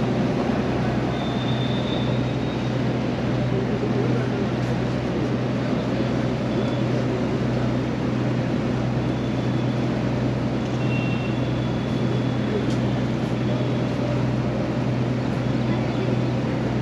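Ferry's engine running steadily: a constant low hum under a wash of noise.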